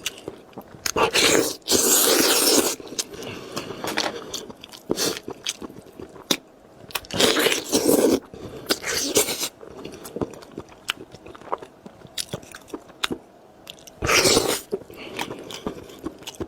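Close-miked eating: three loud crunchy bites, one about a second in, one in the middle and one near the end, with wet chewing and small mouth clicks in between.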